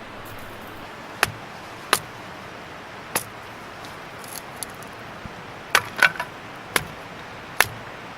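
Sharp clacks and snaps of firewood being handled, about seven separate strikes with two close together about six seconds in.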